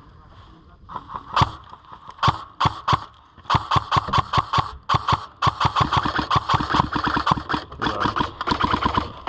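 Airsoft electric rifle firing on full auto: a rapid, even stream of shots with the gearbox motor's whir, in a few short bursts at first, then long strings.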